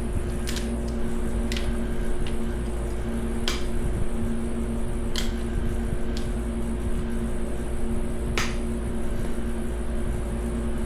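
Light, sharp metallic clicks and taps of hand tools on engine parts, about five scattered through, over a steady hum and low rumble of shop background noise.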